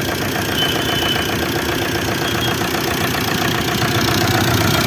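Maruti Suzuki Swift Dzire diesel engine idling steadily with an even, rapid clatter, just after starting on the first crank following an overhaul.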